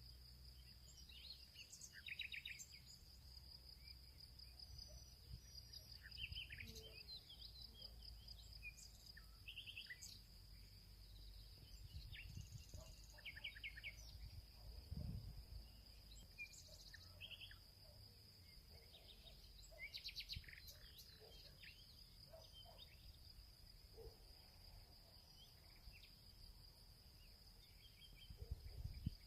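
Faint field ambience: a steady high-pitched insect trill with many short bird chirps and calls scattered over it, and a low rumble underneath.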